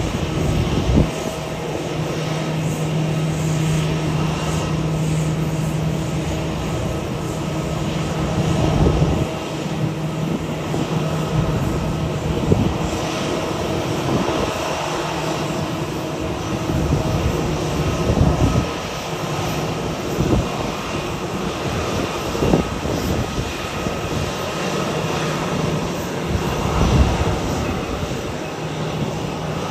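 Jet airliner engines droning steadily, with a low hum that is strongest for the first nine seconds and then weakens. Irregular low thumps run through it.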